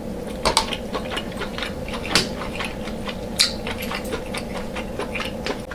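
Close-miked wet eating sounds of deshelled seafood boil being chewed: irregular smacking and clicking of the mouth, several a second, with a couple of sharper smacks, over a faint steady hum.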